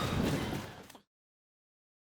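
Outdoor background sound fades out about a second in, and the audio then drops to complete silence.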